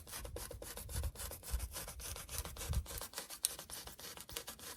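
Rubbing and scratching of insulation material being handled and pressed into place, a quick irregular run of short scraping strokes with a few dull low bumps.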